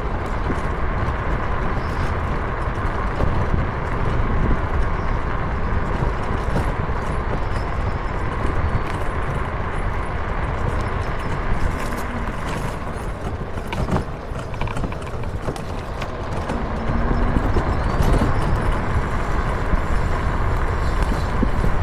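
Steady wind buffeting on the microphone and tyre rumble from riding a small electric two-wheeler along a path, with a faint steady hum underneath and a few small knocks over bumps around the middle.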